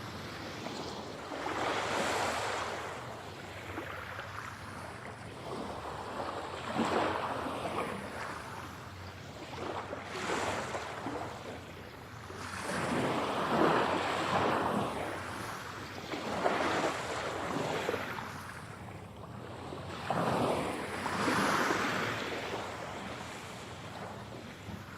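Ocean waves breaking and washing up on the shore, swelling and fading every few seconds, mixed in 8D audio so the sound moves around the listener.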